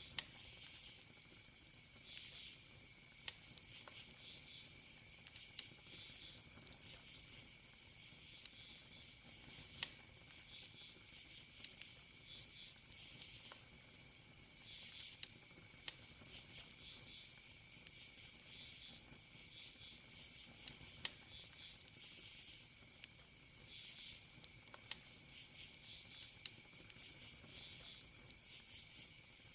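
Wood campfire crackling with irregular sharp pops, over crickets chirping in repeated bursts and a steady high insect trill.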